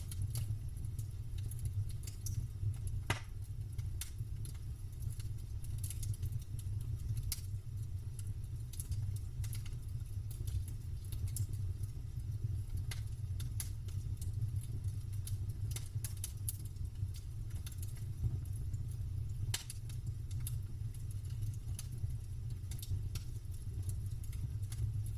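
Wood campfire crackling, with irregular sharp pops and snaps, a few louder ones, over a steady low rumble of burning.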